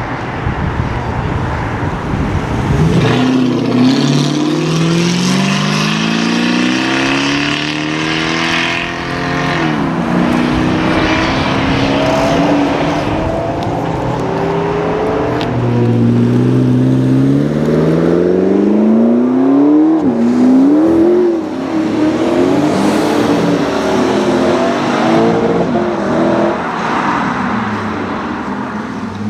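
Mercedes 280 SE's swapped-in 5.5-litre AMG V8 accelerating hard. Its pitch climbs steadily over several seconds and falls off sharply, once about ten seconds in and again about twenty seconds in, with smaller rises and falls after.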